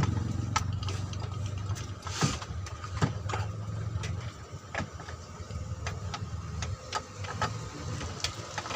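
Scattered metallic clicks and knocks of hand tools on the engine's fan clutch as it is worked loose, over a low engine hum that fades out about halfway through.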